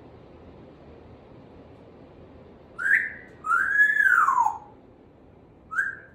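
African grey parrot whistling: a short rising note, then a longer note that arches up and glides down, with the same pair starting again near the end.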